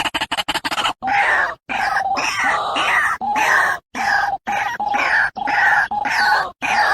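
White-breasted waterhen calling: a long run of loud, harsh notes, each about half a second to a second and a half long with short breaks between them. This follows a quick pulsing run in the first second.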